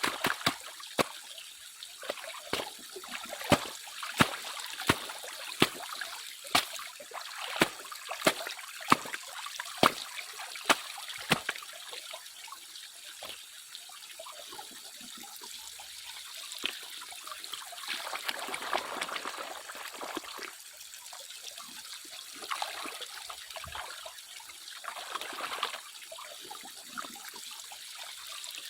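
Water sloshing and trickling as sediment is washed by hand in a gold pan. Through the first twelve seconds, sharp clicks or knocks come about once or twice a second; after that come softer swishes of water.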